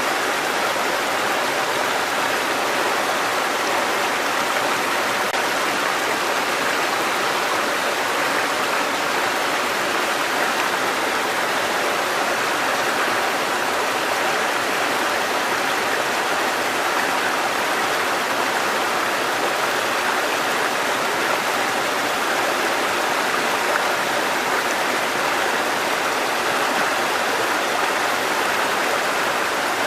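Water cascading over rocks in a mountain stream, a steady rushing that does not change.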